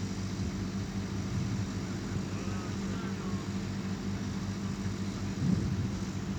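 A steady low mechanical hum, like an engine or motor running, with a few faint high chirps around the middle.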